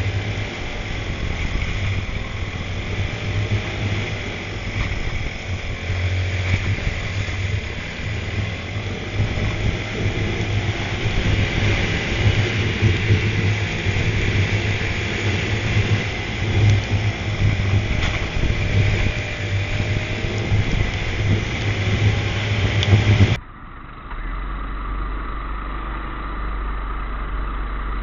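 Go-kart engine running on track, its pitch rising and falling. About five seconds before the end it cuts abruptly to a duller recording with a steady low hum.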